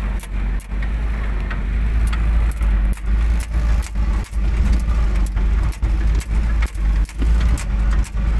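Suzuki Jimny driving over a rough off-road trail: a steady engine and low rumble with frequent irregular knocks and rattles as the vehicle jolts.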